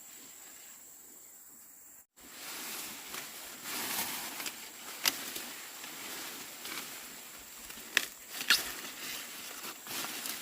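Rustling and crinkling with a few sharp snaps, after a brief cut-out about two seconds in; before the cut there is only a faint steady hiss with a thin high tone.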